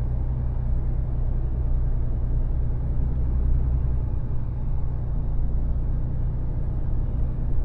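Mercedes-Benz Actros truck's diesel engine running steadily under way, a constant low drone with road noise.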